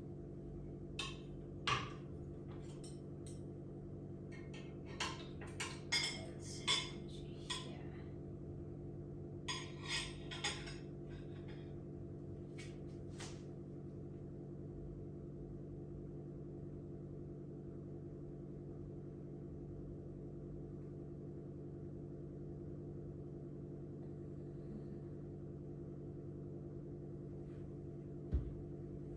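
Light clinks and taps of dishes and cutlery, clustered in the first half, over a steady low hum.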